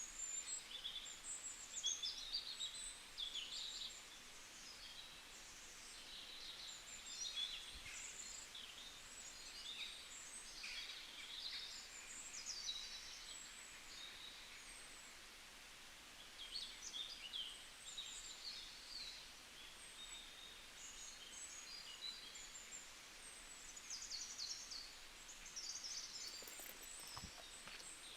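Wild birds chirping and singing, many short high calls overlapping and coming and going throughout, over a faint steady outdoor hiss.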